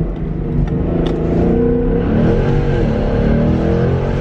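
Ford Mustang GT's 5.0-litre V8 through an aftermarket exhaust, accelerating hard in first gear, its engine note rising and dipping as it revs.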